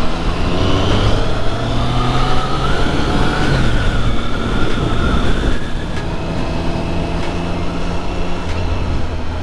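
Triumph Street Triple 675-R's inline three-cylinder engine pulling under way: its pitch rises for the first few seconds, drops about three and a half seconds in, then holds steady, over a continuous rush of wind and road noise.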